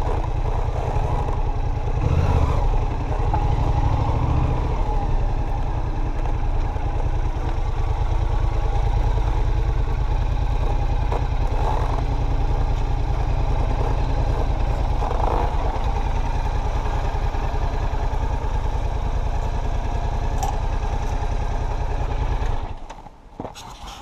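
Yamaha MT-07's 689 cc parallel-twin engine running at low speed and then idling steadily. Near the end its sound drops away suddenly, followed by a few sharp knocks.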